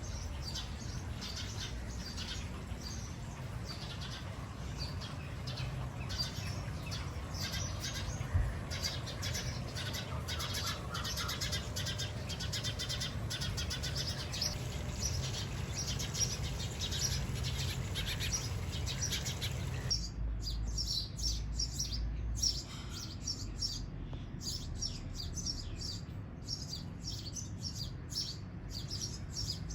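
Sparrows chirping rapidly and continuously, many short overlapping chirps, over a low background rumble. The rumble changes abruptly about two-thirds of the way through while the chirping goes on.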